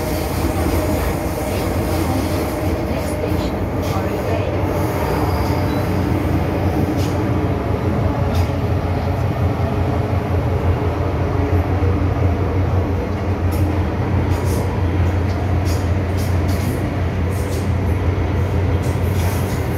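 MTR Island Line M-Train running between stations: a steady rumble of wheels on rail and the train's running gear, heaviest in the low end, with a few faint held tones and scattered sharp clicks.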